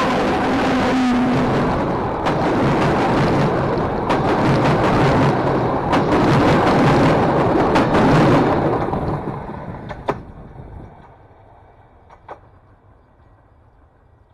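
A train passing close by: a loud rumble of wheels on the rails, with sharp knocks running through it, that fades away about nine seconds in, leaving a couple of single clicks.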